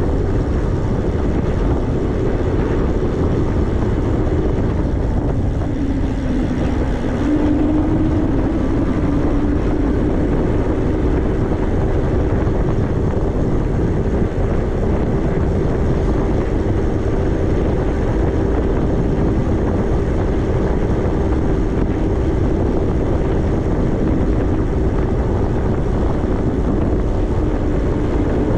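Electric bike motor whining steadily under heavy wind rush on the microphone while riding at speed; the motor's pitch rises about seven seconds in as the bike speeds up.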